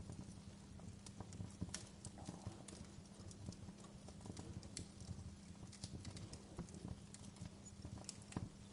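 Wood fire crackling and popping in a fireplace, with irregular sharp snaps over a low steady rumble of the flames.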